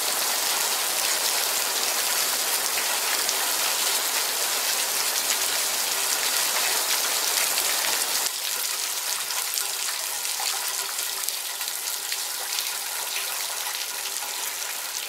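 Heavy rain mixed with small hail falling on a concrete patio and gravel, a dense patter of many small ticks. About eight seconds in it drops a little in level.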